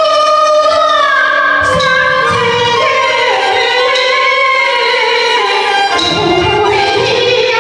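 Teochew opera singing: a long melodic line with sliding, held notes over a traditional instrumental accompaniment with fiddle and low drum strokes.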